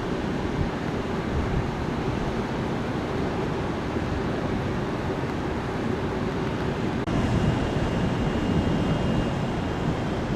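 Steady rushing roar of distant jet aircraft engines mixed with wind on the microphone. About seven seconds in the sound shifts, and a faint high whine comes in.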